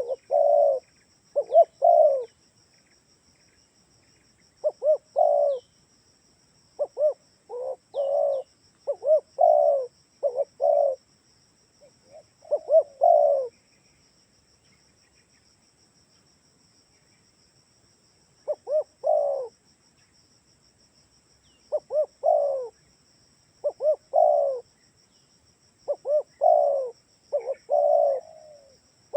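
Spotted dove (tekukur) cooing: short phrases of a few notes repeated every second or two, with a silent stretch of about five seconds midway. It is a lure call meant to set other doves calling back.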